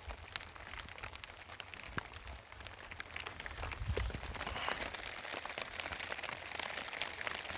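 Rain pattering: many irregular drops ticking over a steady hiss, with a low rumble underneath.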